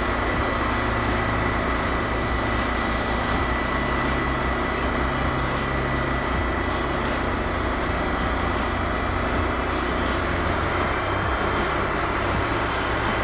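TimberKing 2000 band sawmill running steadily while slabbing a white willow log: the engine runs at a constant pitch with a thin steady high whine above it.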